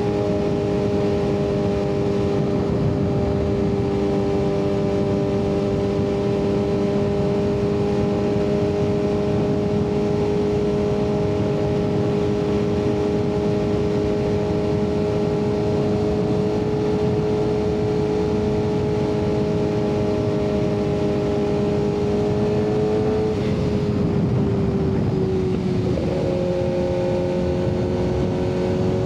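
Kawasaki ZX-6R 636 inline-four with an M4 exhaust, running at steady revs under way, with a rushing noise underneath. About three-quarters through, the engine note drops, breaks off briefly, then settles again at a slightly lower pitch.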